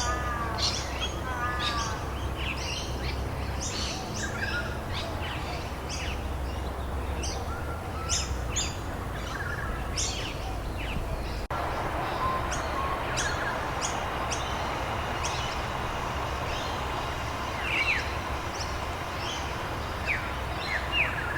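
Many small birds chirping and calling in quick, short notes over a steady background hiss. The background changes abruptly about eleven seconds in, as at a splice in the recording.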